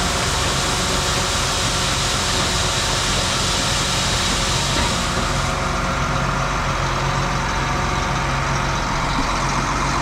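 Truck engine idling steadily, with a broad hiss over it that drops away about five and a half seconds in.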